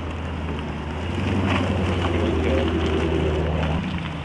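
Low, steady rumble of car engines idling and rolling slowly, with one engine's drone cutting off about four seconds in.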